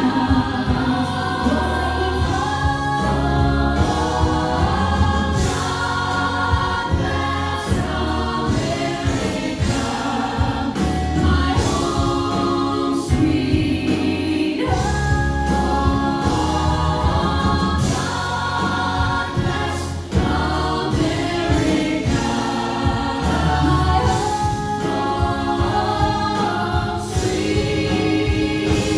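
A choir singing a gospel-style song with instrumental accompaniment and a steady, full bass.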